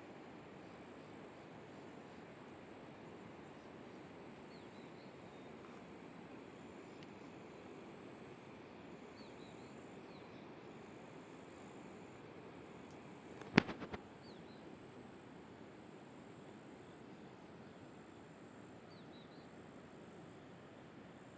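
Faint steady outdoor ambience with a few faint, short bird chirps. About two-thirds of the way through comes a sharp click, the loudest sound, followed by a couple of smaller ones.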